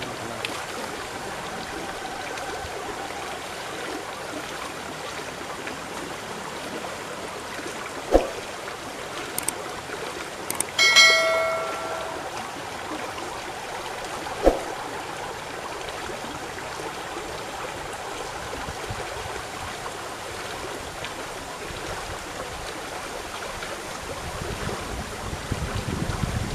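Steady rush of river water, broken by two sharp knocks and a short ringing tone about eleven seconds in. Low wind rumble on the microphone comes in near the end.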